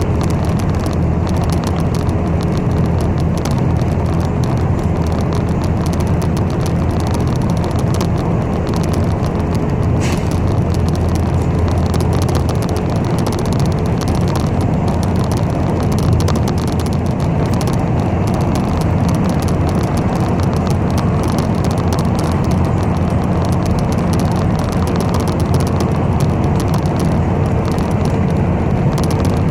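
Steady low rumble of a city bus's engine and road noise heard from inside the moving bus, with a brief faint click about ten seconds in.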